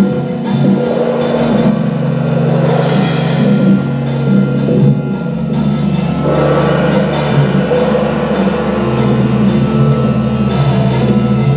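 Live jazz organ trio playing: organ with sustained low notes and chords over a drum kit keeping time with cymbals.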